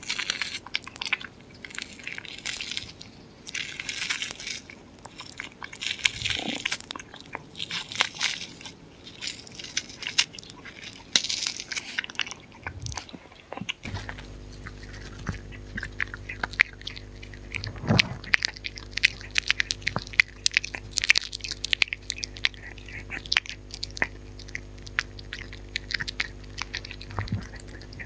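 Dog chewing and crunching food close to the microphone, in rapid bursts of crunches and sharp clicks. About halfway through a steady low hum comes in beneath the chewing.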